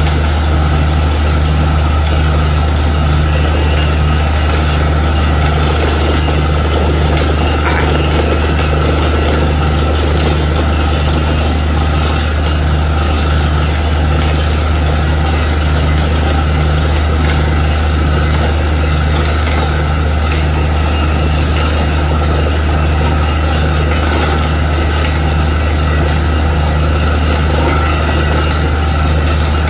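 Borewell drilling rig running steadily under load: a loud, deep engine hum with a regular low pulse and a constant rushing noise over it.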